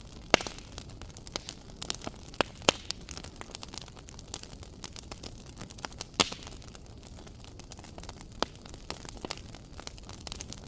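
Wood fire crackling: irregular sharp pops and snaps over a faint steady hiss, with a few louder pops.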